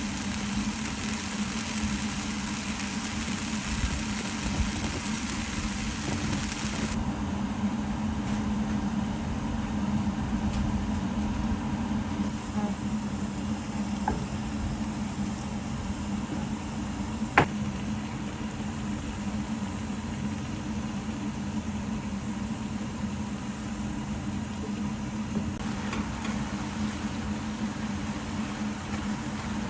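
Steady mechanical hum with a constant low drone and a hiss that drops away about seven seconds in and returns near the end. One sharp click comes a little past the middle.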